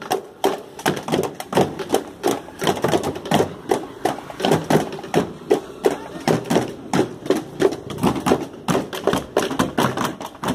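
Marching band drums playing a fast, steady beat, many sharp strokes a second.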